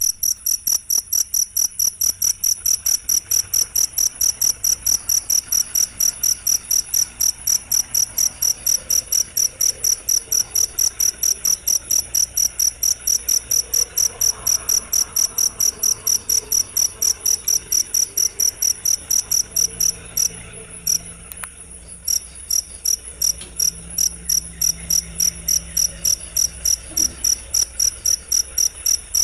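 Cricket (jangkrik) chirping in a fast, very regular rhythm of about three to four high-pitched chirps a second, with a brief stumble about twenty seconds in.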